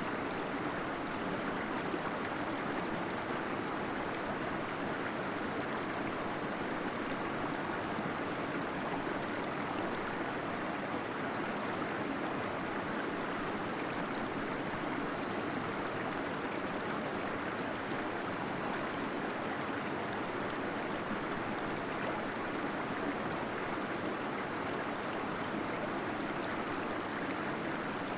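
Small waterfall splashing and gurgling, echoing off cave walls: a steady, even rush of water with no breaks.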